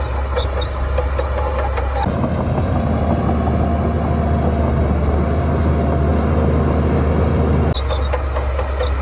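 Heavy diesel engine of a Shantui bulldozer running, with scattered light clicks. About two seconds in the sound switches abruptly to a steadier engine note, then switches back near the end.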